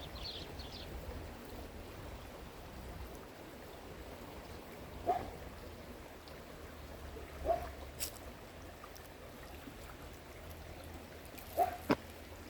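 A stream of water running steadily, with a few brief louder gurgles or splashes about five and seven and a half seconds in and twice near the end. A bird chirps a few times at the very start.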